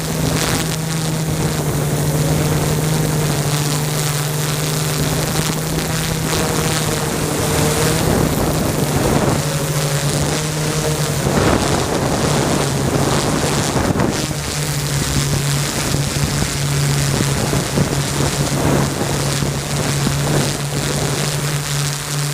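Drone propellers humming at a steady pitch, with wind rushing over the microphone and gusting stronger in the middle.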